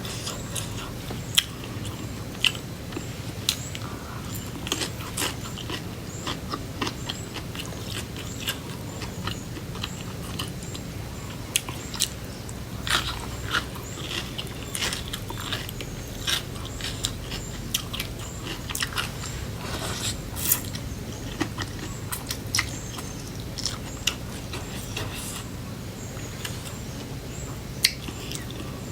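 Close-up chewing and crunching of pounded cucumber salad, with irregular crisp bites and mouth sounds throughout, over a faint steady low hum.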